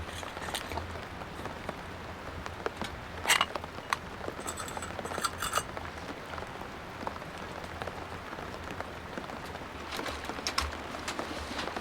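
Steady rain pattering on the tent, with a few light clinks of cooking utensils and dishes: one at about three seconds, a short cluster at about five seconds, and more near the end.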